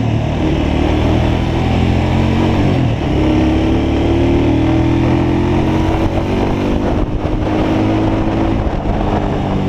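Motorcycle engine running under way. Its pitch climbs steadily as it accelerates from about three seconds in, then falls away near the end.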